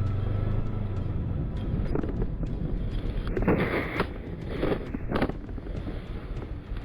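Motorcycle running, with wind noise on the microphone and a few brief louder noises in the middle.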